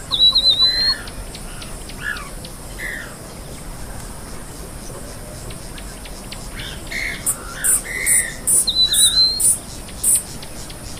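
Wild birds calling: a high, warbling whistled note at the start and again about nine seconds in, with shorter, lower calls between them and a quick run of very high clicking notes near the end.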